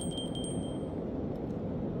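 Steady low rushing noise of a flooded river, with a short high metallic ring at the start that fades out within about a second.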